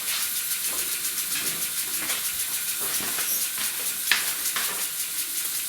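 Small model steam engine running, steam hissing steadily with fine rapid pulsing, part of it escaping around its fittings; a sharp click about four seconds in.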